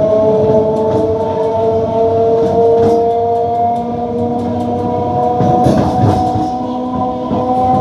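MEMU electric multiple-unit train heard from inside the coach: the running gear's whine, several steady tones slowly rising in pitch, over a rumble of wheels on the rails with frequent short clicks and knocks.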